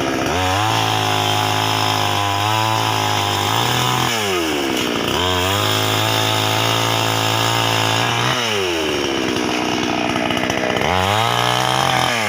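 Petrol brush cutter engine cutting grass, revved to full throttle three times. It holds high for about three seconds each time and drops back to idle in between, the third rev starting near the end.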